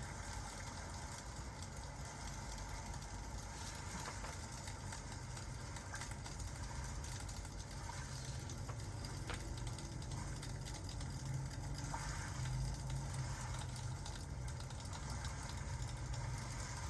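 Steady rain-and-fireplace ambience: a low rumble under an even hiss of rain, with faint scattered crackles from the fire.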